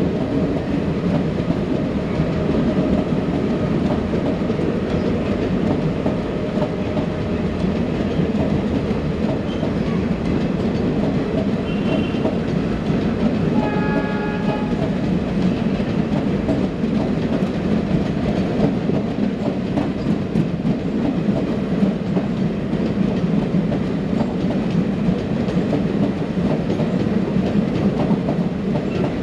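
Express train coaches rolling past at speed: a steady rumble with the clickety-clack of wheels over rail joints. A brief horn-like tone sounds about halfway through.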